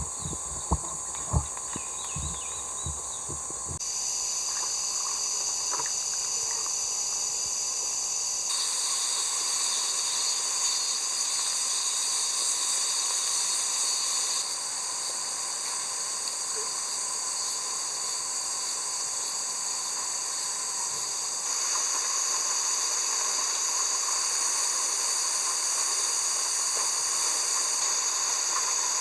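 A steady, high-pitched hiss with several held high tones running through it, which steps louder and quieter a few times. Two sharp knocks come about a second in.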